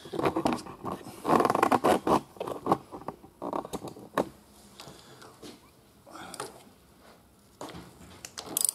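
Socket ratchet wrench clicking and scraping against metal in short bursts as it is worked to loosen a motorcycle fork top cap. The busiest, fastest ticking comes in the first two seconds, with scattered clicks after.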